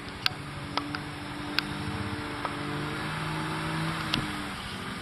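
An engine running steadily with a low hum that drifts slightly in pitch, with a few sharp clicks over it.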